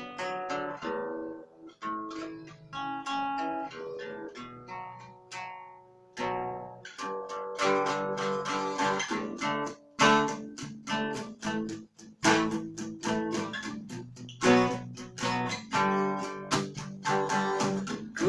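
Cort acoustic guitar played solo: single picked notes and arpeggios for about the first six seconds, then strummed chords.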